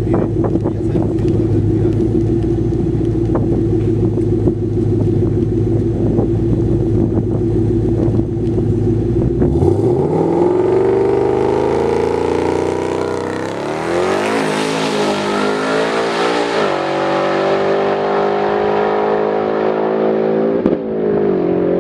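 Twin-turbo Ford Mustang V8 drag car holding a steady low rumble at the starting line, then launching about nine and a half seconds in. Its engine pitch climbs in a run of quick upshifts through the 10-speed automatic as it makes a pass down the drag strip.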